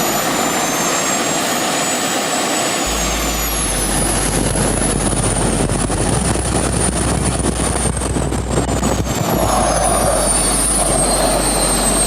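Two small jet engines on a go-kart running loud: a steady rush of noise with high turbine whines that slide down in pitch about four seconds in and again near the end.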